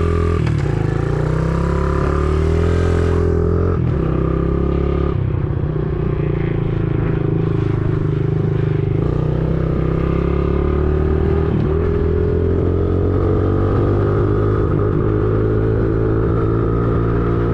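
Small 50cc dirt bike's single-cylinder engine under way, revs climbing and dropping a few seconds in as it shifts through its three gears, then rising steadily again.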